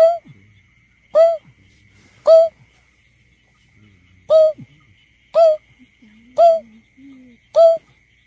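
Greater painted-snipe giving its low, owl-like hooting call: seven short hoots about a second apart, with one longer pause after the third. This is a repeated lure call of the kind used to draw the birds in during surveys.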